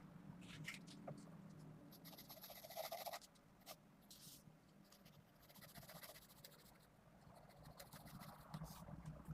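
Faint scratching of a 0.5 mm 2B mechanical pencil sketching on paper in short, irregular strokes.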